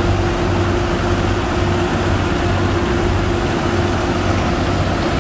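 Sand pump engine on a sand boat running steadily under load, with a constant hum and a low throb pulsing about twice a second.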